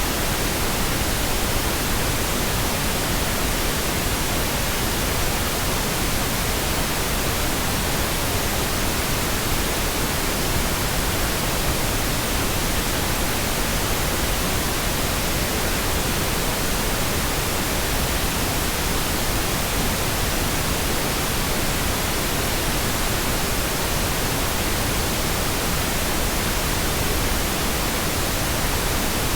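Steady pink noise: an even, unchanging hiss spread across the whole range, with no tones or breaks.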